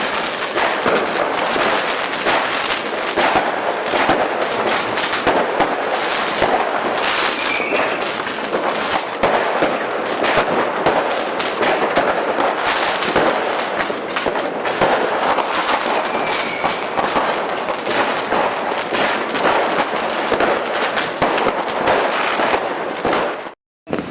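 Dense, unbroken crackle of many fireworks and firecrackers going off at once, the bangs overlapping with no pause between them. It cuts off abruptly near the end.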